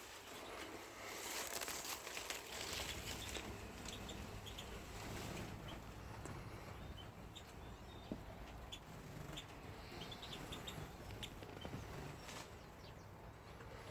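Rustling and clattering as the aviary is opened, then small finches giving scattered short high chirps, with a sharp click near the end.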